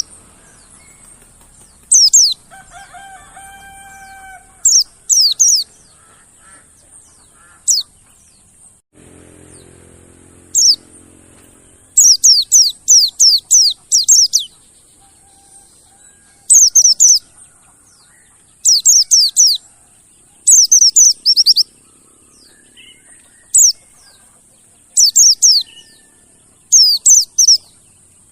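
Mountain white-eye (pleci monty) calling: sharp, high falling notes in quick bursts of one to seven, repeated every second or two with short gaps between.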